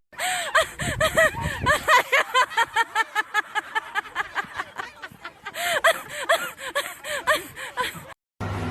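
A voice giving a long run of short, high-pitched, laugh-like squeals, a few a second and quickening, that cuts off abruptly near the end.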